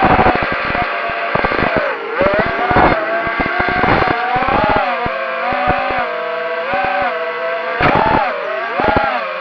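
Brushless motors and propellers of an FPV racing quadcopter whining in flight, the pitch repeatedly rising and falling as the throttle is worked.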